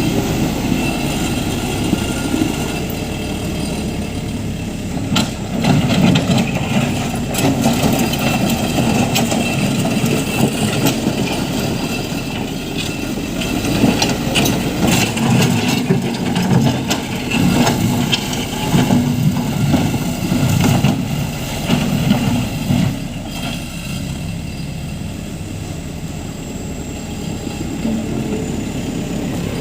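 JCB 3CX backhoe loader's diesel engine running at work, its load and revs swelling and easing several times, with scattered knocks over the top.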